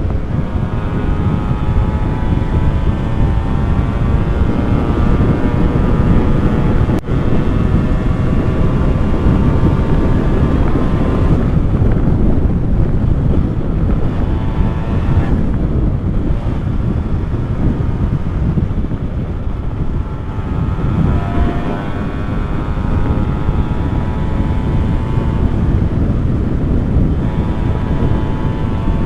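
Two-stroke motorcycle engine running under way, its note shifting in pitch and dropping off briefly a few times, under heavy wind rumble on the microphone.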